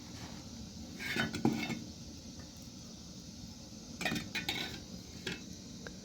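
Short bursts of light clattering and clinking, like handled dishes or utensils, about a second in and again about four seconds in, with one more click shortly after.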